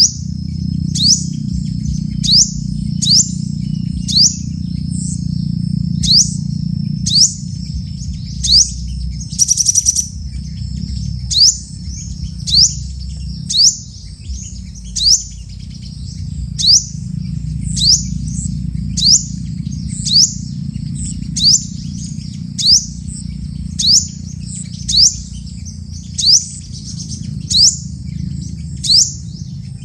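A small songbird repeats a sharp, rising chirp about once a second, with a brief fast trill about ten seconds in. A thin, steady high tone and a low rumble run underneath.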